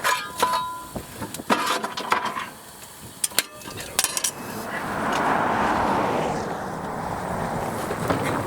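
Small metal clinks and taps from oiling a steam traction engine at a stop, with the lubricator wicks being checked and adjusted. From about halfway a steady rushing hiss takes over.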